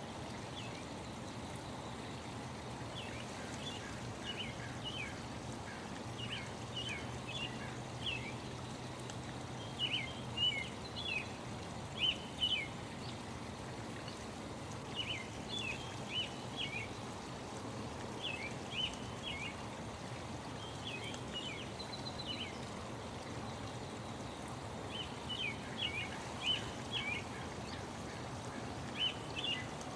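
Small songbirds chirping in short runs of quick, high notes every few seconds, over the steady rush of a flowing stream.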